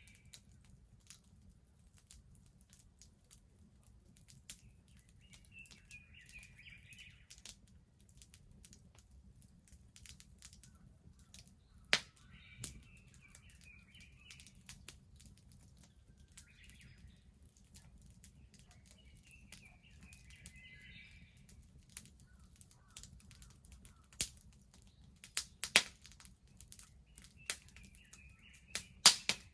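Wood bonfire crackling with scattered sharp pops, several of them loud, most in the second half. Birds chirp in short phrases every few seconds over a low steady rumble.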